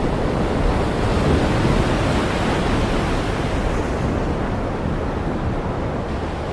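The Swat River in flood: a steady, loud rush of fast, turbulent floodwater, with wind on the microphone.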